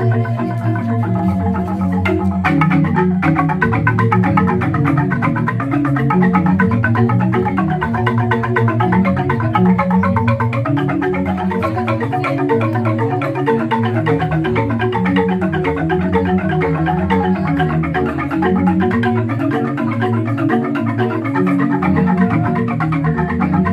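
Balinese jegog bamboo gamelan playing a tabuh petegak: fast, dense interlocking strikes on bamboo tube xylophones over deep, shifting bass notes.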